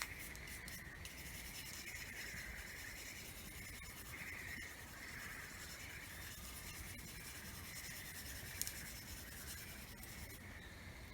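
Faint, slow, repeated rubbing or scraping strokes, with one sharp click about eight and a half seconds in.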